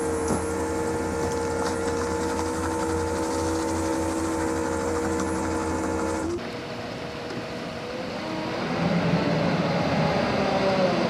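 Vehicle noise heard from inside a moving truck: a steady hum with whining tones that cuts off abruptly about six seconds in, then engine and road noise rising in pitch and getting louder as the truck speeds up.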